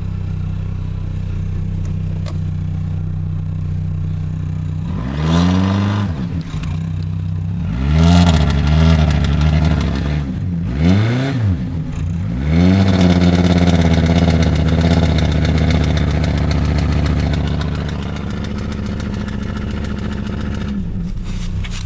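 Chevrolet car's 2.2-litre four-cylinder engine idling, then revved up and down in four short surges and held at higher revs for several seconds before dropping back to idle, as the car is driven to get it out of snow.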